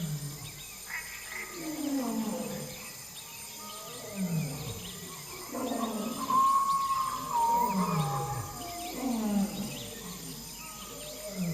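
Wild animal calls: a series of low calls, each falling in pitch, repeating every second or two, with a long whistle-like call that steps down in pitch midway and small chirps above.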